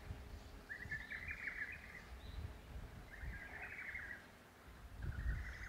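A bird singing short phrases of about a second each, repeated three times at intervals of roughly two seconds.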